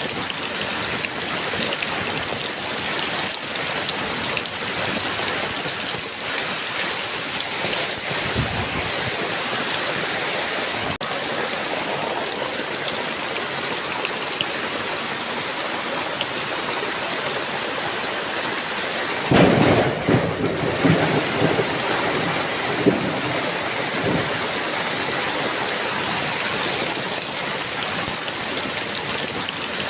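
Heavy rain falling steadily, with a sudden thunderclap about two-thirds of the way in that rumbles on for a few seconds.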